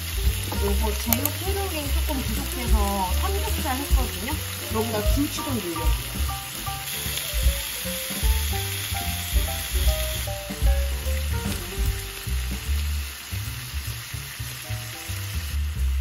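Pork belly and red-pepper-marinated pork sizzling as they fry in a pan. The sizzle grows louder for a few seconds in the middle.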